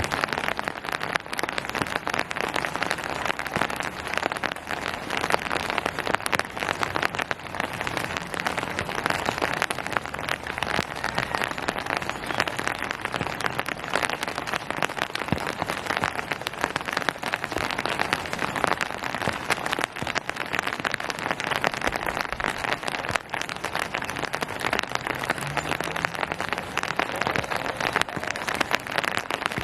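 Steady rain falling on hard surfaces: a dense pattering of countless fine drop ticks that neither builds nor fades.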